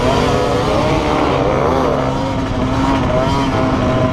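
Motocross motorcycle engines revving on track, several at once, their pitches rising and falling as the riders work the throttle, with one engine holding a steady note through the second half.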